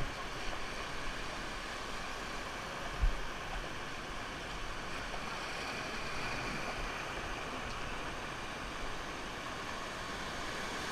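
Steady rush of river water, with one short low thump about three seconds in.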